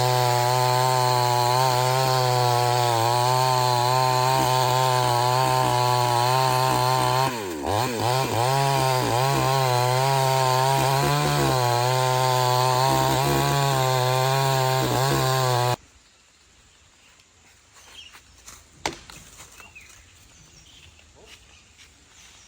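Chainsaw running at high revs, cutting wood. The engine note dips briefly about halfway and picks back up, then stops suddenly about three-quarters of the way in. A quiet outdoor background follows, with one sharp knock.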